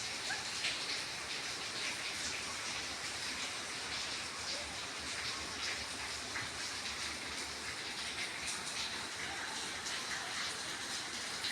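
Steady rain falling, with many small drops ticking and splashing through it.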